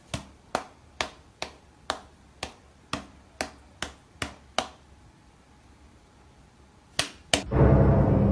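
A series of sharp taps, about two a second, stopping about four and a half seconds in; after a pause come two more taps, and then music starts.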